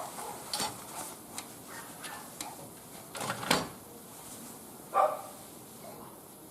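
Firewood crackling with scattered sharp pops in a barbecue grill. A short bark, like a dog's, comes about five seconds in and is the loudest sound.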